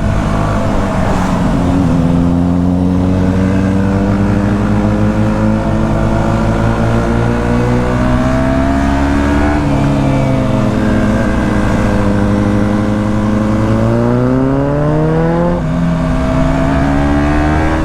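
KTM 125 Duke's single-cylinder four-stroke engine pulling the bike along, its pitch climbing slowly as it revs up, falling away about ten seconds in, climbing again and dropping a couple of seconds before the end.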